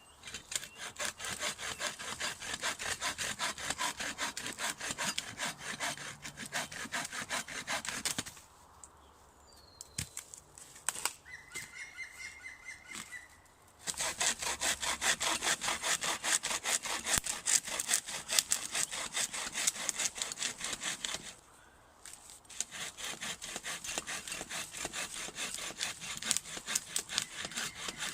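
Hand saw cutting through rotted firewood in quick back-and-forth strokes. It stops about eight seconds in for several seconds, starts again, and pauses once more briefly near the three-quarter mark.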